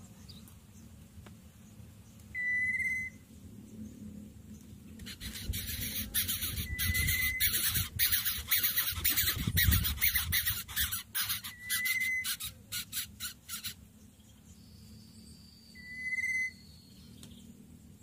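A bird's short whistled note on one steady pitch, given four times about four seconds apart. Between the second and fourth notes a loud, pulsing rasping hiss runs for about nine seconds and then stops abruptly.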